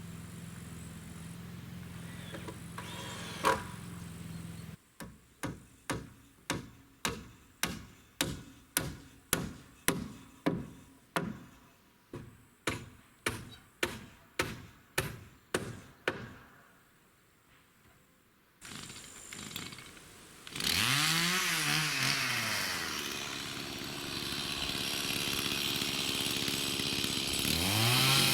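About twenty sharp knocks at roughly two a second, like strikes on wood, then after a short pause a chainsaw starts up loud about two-thirds of the way in, its pitch dropping and rising again as it labours in a cut, and revving up once more near the end.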